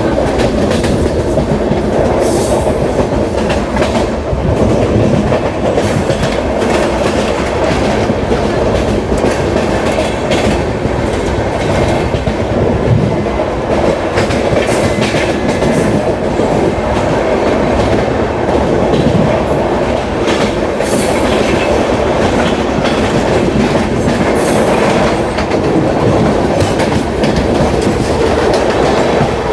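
Indian passenger train running at speed, wheels clattering over the rails in a steady loud rumble with irregular sharp clanks. The noise is put down to rail joints and poor track alignment.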